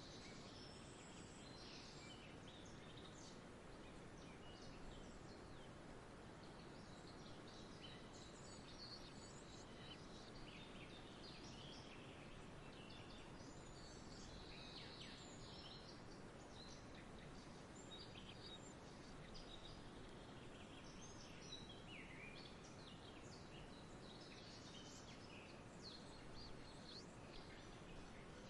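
Faint outdoor nature ambience: many short, high bird chirps scattered throughout over a steady low background hiss.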